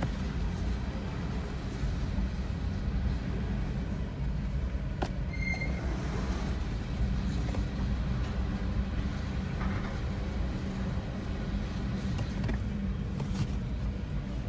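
Freight train's coal cars rolling past, a steady low rumble heard muffled from inside a car's cabin, with a few sharp clicks and a brief high squeal about five seconds in.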